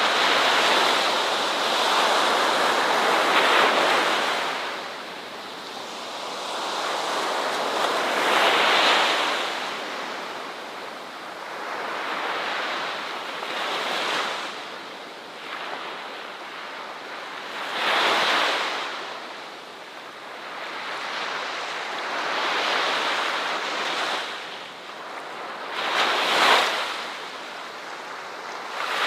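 Ocean waves breaking and washing on a shore: a steady rushing surge that swells and ebbs every few seconds, with sharper breaks about 9, 18 and 26 seconds in.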